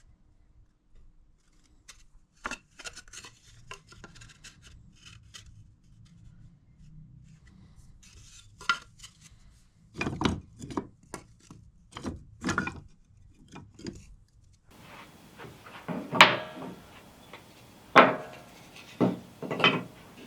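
Wood and hand tools being handled on a workbench: scattered sharp clacks and taps, with a few louder knocks that ring briefly near the end.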